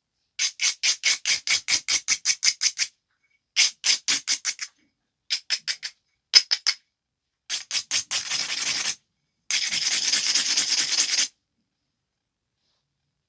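Edge of a flint biface being abraded with a stone abrader. The scraping comes in several runs of quick back-and-forth strokes, about five a second, and the last two runs blur into a continuous rub. This is grinding the edge to strengthen the striking platforms before flaking.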